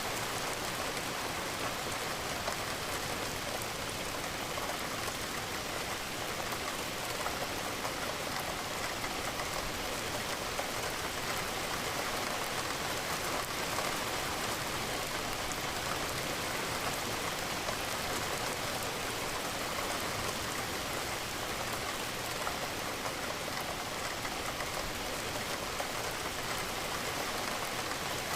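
Steady rain, a dense even patter with fine drips.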